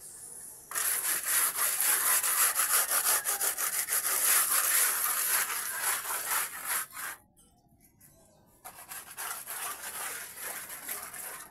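A plastering tool rubbing cement render on a wall in rapid back-and-forth strokes. It stops for about a second and a half partway through, then resumes more quietly.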